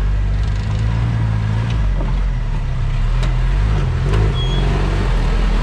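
Off-road 4x4's engine running at low revs, a steady low hum that shifts slightly in pitch, with a few faint knocks.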